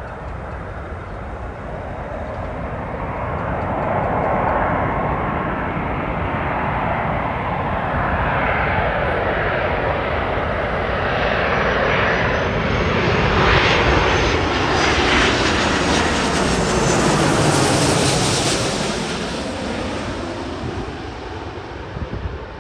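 Airbus A330-300 jet airliner with Rolls-Royce Trent 700 turbofans passing overhead on approach: a jet roar with a high fan whine that builds, is loudest a little past the middle, then fades away.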